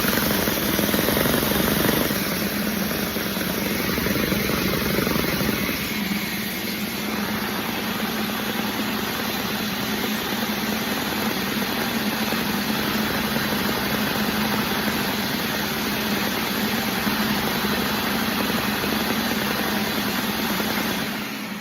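LEGO model four-cylinder engine, turned by an electric motor, running steadily with a continuous mechanical whir and a low hum; it stops right at the end.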